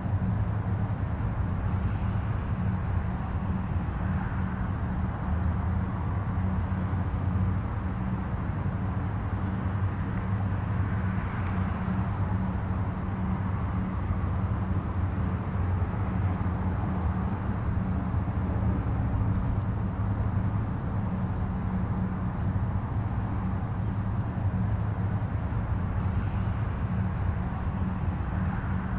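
Distant highway traffic: a steady low rumble of tyres and engines. Single vehicles swell a little louder as they pass, about four, eleven and twenty-eight seconds in.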